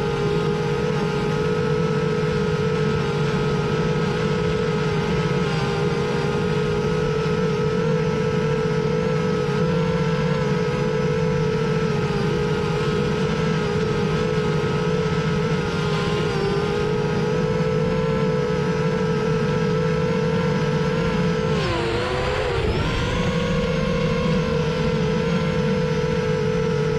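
Parrot Bebop 2 quadcopter's electric motors and propellers running with a steady whine. About 22 seconds in the pitch dips briefly and climbs back.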